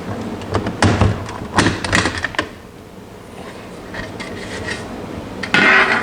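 Sharp knocks and clatter of a thin plywood light-fixture cover being handled and worked loose, several taps in the first two seconds, then a short rasping scrape near the end.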